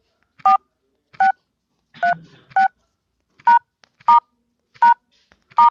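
Phone keypad touch tones (DTMF): eight short two-note beeps at uneven intervals as digits are keyed in one at a time.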